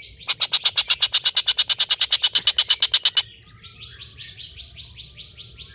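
Tengkek buto kingfisher giving its long chattering 'ngekek' call: a loud, fast run of about thirty even notes, about ten a second, lasting about three seconds. It is followed about a second later by a softer run of quicker repeated notes.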